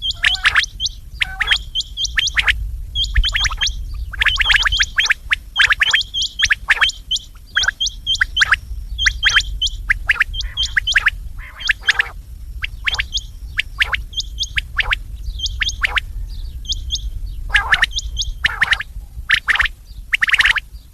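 Quails calling over and over in quick phrases of short, sharp high notes, with a steady low hum underneath.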